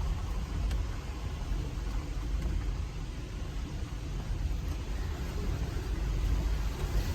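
Low, steady rumble of the Jeep Gladiator Rubicon's 3.6 Pentastar V6 running at low revs on an off-road trail, heard from inside the cab.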